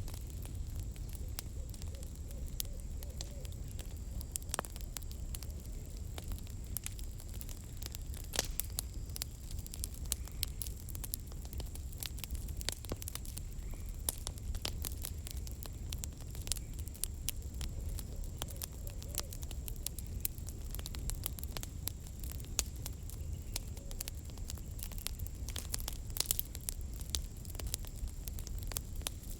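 Campfire crackling: burning firewood giving irregular sharp pops and snaps over a low, steady rumble.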